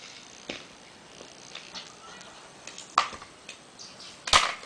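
Toy truck and car being handled, giving scattered plastic clicks and knocks, with the loudest knock and a short rattle near the end.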